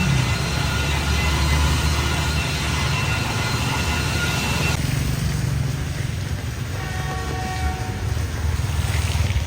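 A train running past with a loud, steady low rumble of wheels on rails. About five seconds in the upper hiss drops away suddenly, and faint steady tones follow.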